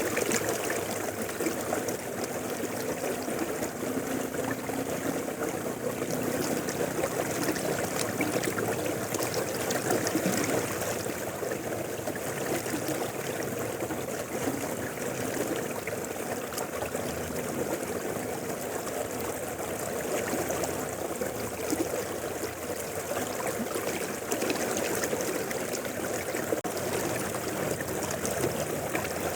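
A mountain river flowing, a steady rush of water.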